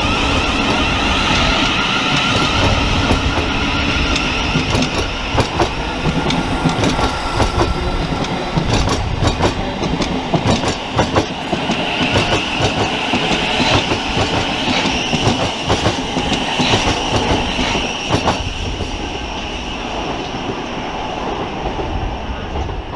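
Electric multiple-unit train running along the platform, its wheels clicking over the rail joints over a steady whine. The sound eases slightly over the last few seconds.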